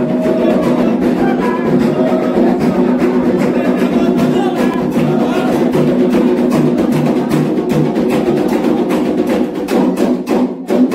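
Candomblé atabaque drums playing a fast, dense rhythm for Xangô, thinning to a few separate loud strokes near the end.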